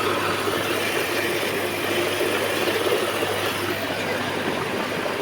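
Mahindra 265 DI tractor's three-cylinder diesel engine running steadily at an even speed.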